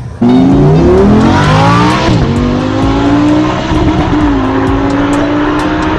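Racing-car engine revving sound that starts abruptly: the pitch climbs twice in the first two seconds, then holds steady at a high rev.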